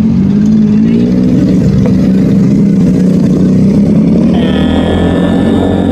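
Superbike engine running loud at a fairly steady pitch. A high, steady whine joins in a little over four seconds in.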